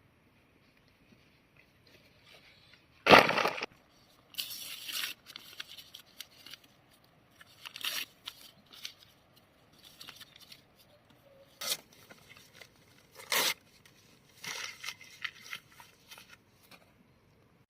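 Irregular bursts of tearing and rustling, something being torn or handled by hand; the loudest tear comes about three seconds in, with smaller ones scattered after.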